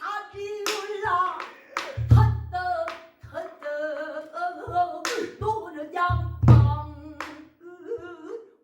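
Pansori singing: a sustained, bending, ornamented solo voice, accompanied by a buk barrel drum. The drum plays deep strokes on the drumhead and sharp taps on the wooden rim.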